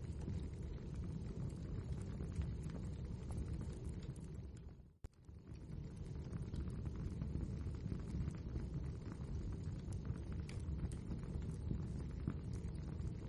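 Wood fire crackling steadily, a low rumble of flames under many small sharp crackles and pops. About five seconds in the sound dips briefly to near silence, with a single click, then comes back.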